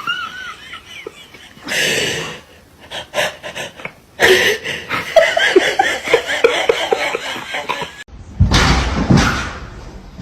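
A person laughing in quick repeated bursts, with a sudden loud noisy crash or thump near the end.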